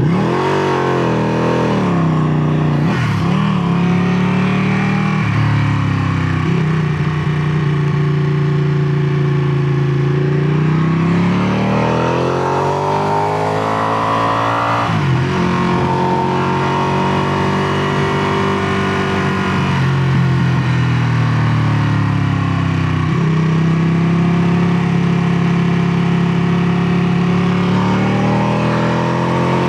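Ducati Panigale 959's Superquadro V-twin engine running, its pitch rising and falling over several seconds at a time. About halfway through a long climb in pitch ends in a sudden drop, and the engine then holds steady; it drops again near three-quarters through.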